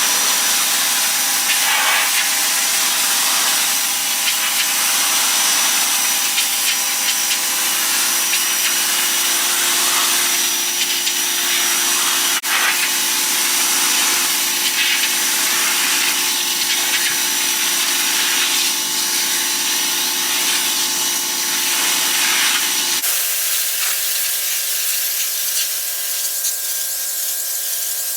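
Ryobi 1800 psi electric pressure washer running, its motor humming steadily under the hiss of the water jet blasting the driveway. Near the end the hum changes pitch abruptly.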